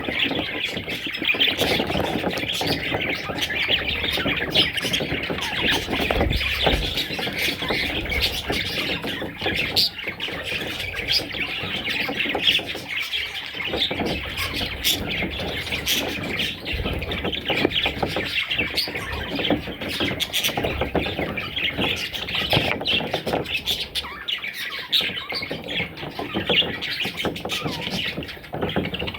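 Pet budgerigars chattering, with a steady, dense stream of overlapping chirps and squawks that never pauses.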